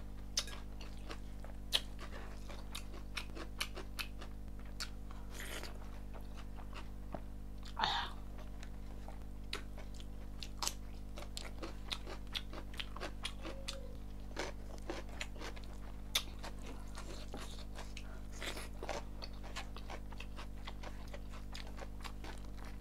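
Close-miked chewing and wet mouth sounds of someone eating rice and chicken curry by hand, with many sharp little clicks and smacks. A steady low hum runs underneath.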